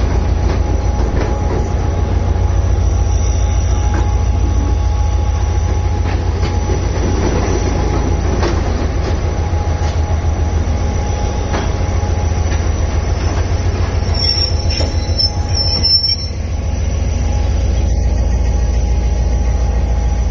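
Passenger train running on the rails, a steady deep rumble with occasional sharp clicks from the wheels over rail joints. A brief high wheel squeal comes about two-thirds of the way through.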